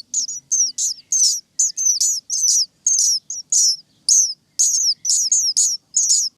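A small bird chirping over and over: short, high, falling notes about three a second, with brief pauses between them.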